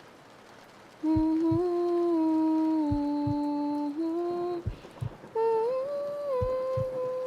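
A woman humming a slow lullaby tune in long held notes, in two phrases with a short break between them. Under it, a heartbeat thumps in paired lub-dub beats about every second and a half.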